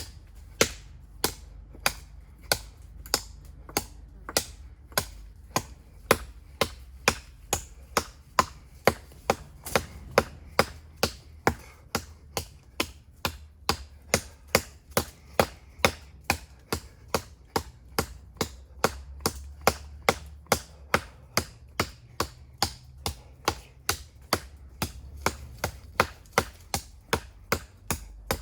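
Convex-ground knife blade chopping into the trunk of a small tree. The blows are sharp and steady, about two a second.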